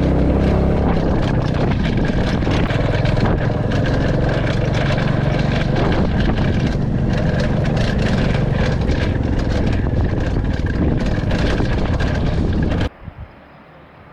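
Royal Enfield Classic 350 single-cylinder motorcycle running at riding speed, with heavy wind noise and many sharp rattling clicks. About 13 s in, the sound cuts off suddenly to a much quieter background.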